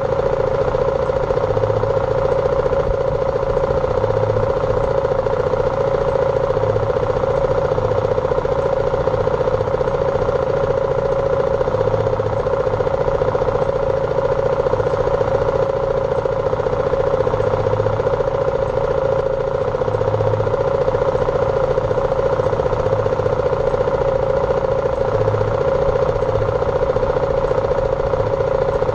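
BMW G310R's single-cylinder engine running at a steady speed, its pitch holding level throughout.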